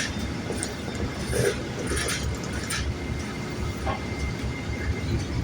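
Low, steady rumble of a large vehicle, a train or bus, running close by, with a few short hisses in the middle.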